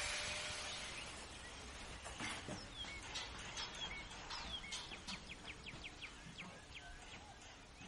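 Birds chirping: a series of short, high, downward-sweeping calls that quicken into a fast run of chirps about five seconds in. A hiss of background noise fades away in the first second or so.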